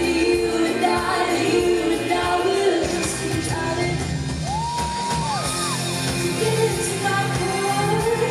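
Live pop band playing with a lead vocal singing over it. Just over halfway through, a thin high glide rises, holds and falls.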